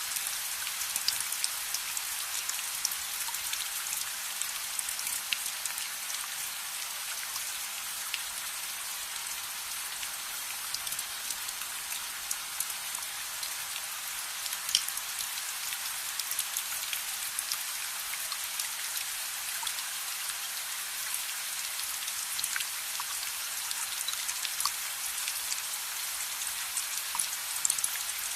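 Steady rain, an even hiss dotted throughout with scattered sharp ticks and pops.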